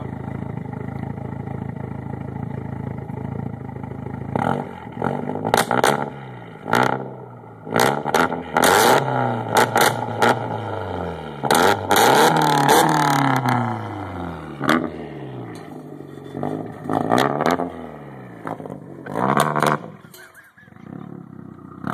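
Toyota 3S-GTE turbocharged four-cylinder engine running through a custom-made exhaust: it idles steadily, then about four seconds in is revved in a series of about a dozen quick blips, the pitch rising and falling with each one.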